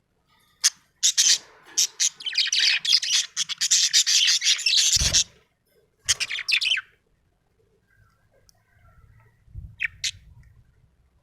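Budgerigar chirping in rapid runs of high chirps and chatter: a long dense run over the first five seconds, a short burst about a second later, and a couple of brief chirps near the end. A dull low thump comes as the first run ends.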